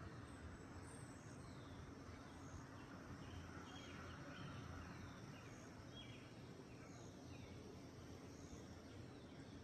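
Faint, low steady hum of honeybees at the hive under general outdoor hiss, with distant birds giving short high chirps about once a second.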